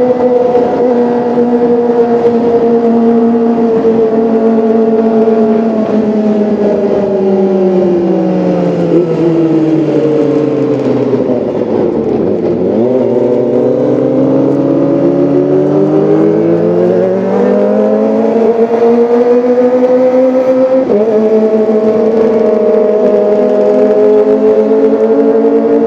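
Kawasaki ZX-25R's 249 cc inline-four engine running, its pitch sinking slowly for about twelve seconds, then climbing back up. About three quarters of the way through the pitch steps up suddenly, then holds steady.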